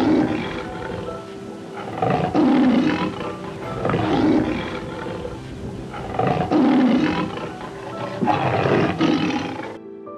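A large animal's rough, growling calls, five in a row about two seconds apart, over background music with held notes. The sound cuts off abruptly near the end.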